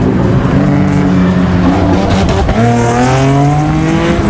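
Car engine revving hard under a haze of tyre noise, its pitch climbing over the last couple of seconds, as in a burnout.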